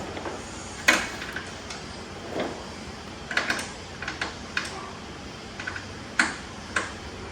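Hand tools and loose parts clicking and knocking during work on a truck's front end, in scattered, irregular knocks with a small cluster near the middle.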